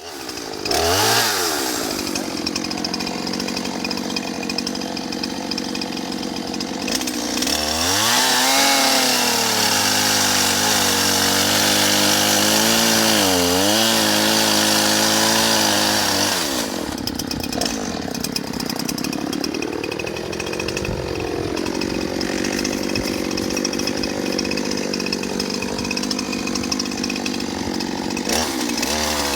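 Brand-new chainsaw running, steady at first, then revved up for about nine seconds with its pitch dipping and wavering as it works through a limb, then easing back down.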